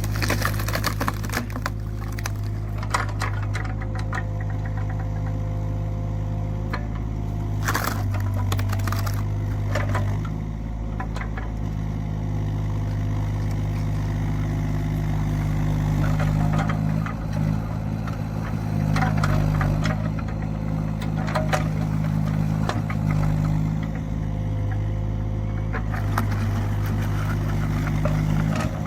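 Hydraulic log splitter's engine running steadily while the wood under it cracks and splits, with scattered sharp cracks and knocks over the hum.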